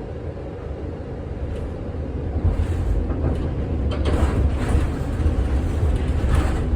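1948 Philadelphia PCC streetcar pulling away and picking up speed: a low rumble of motors and wheels that grows steadily louder, with clicks and knocks joining about four seconds in.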